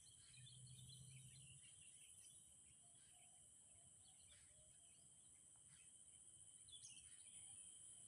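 Faint outdoor ambience: a steady high-pitched insect drone with scattered faint bird chirps.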